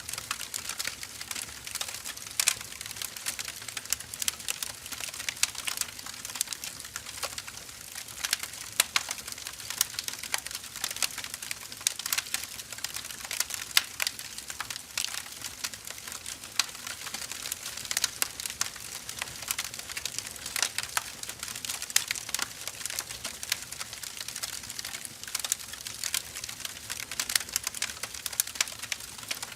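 Firewood burning: a steady fire hiss with dense, irregular crackles and pops.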